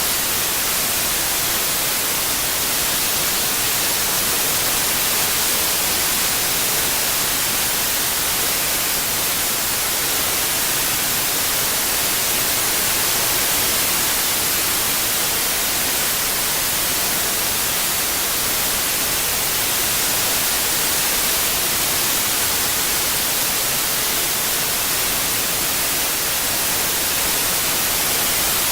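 Steady white-noise hiss, even and unbroken, strongest in the high frequencies.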